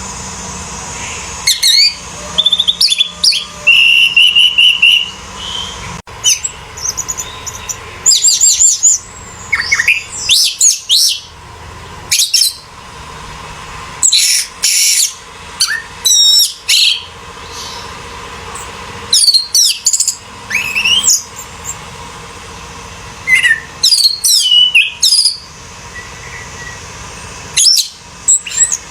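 Orange-headed thrush singing: repeated bursts of quick, varied whistled phrases with notes sweeping up and down, separated by short pauses.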